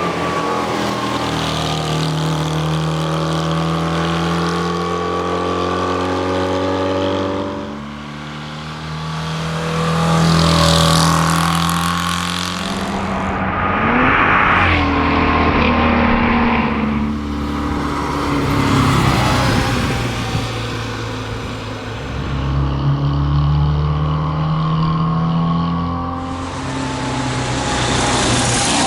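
The small air-cooled flat-twin engine of a 1961 Steyr Puch TR Europa rally car running hard under load, holding high revs and then dropping and picking up again several times as the driver lifts and changes gear.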